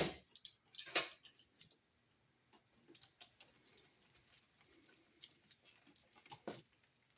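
Sparse small clicks and light scraping of copper wire being handled and bent into a loop for a receptacle terminal screw, with a sharper click about a second in and two more near the end.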